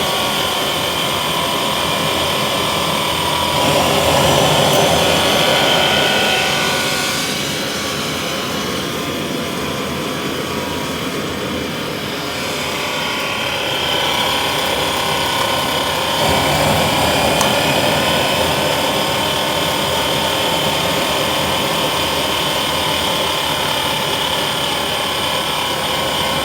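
FD3 Schreckling model jet turbine with a 3D-printed PLA compressor wheel, running on propane at its first start. A high whine over a rushing noise rises in pitch, sinks back for several seconds, then climbs again and holds steady.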